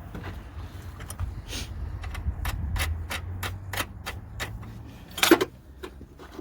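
A run of short, sharp clicks, about three a second, then a louder knock about five seconds in, over a low rumble.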